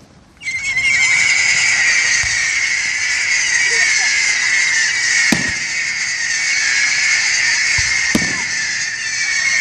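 Two sharp firework shell bursts about three seconds apart, over a loud, steady, shrill high-pitched din that starts within the first second.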